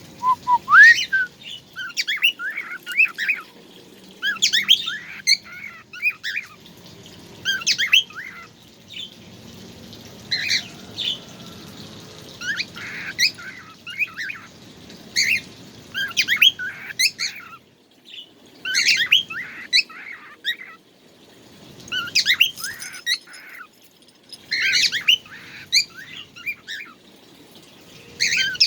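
A songbird singing in repeated bursts of rapid, sweeping chirps, about one burst every two to three seconds with short pauses in between.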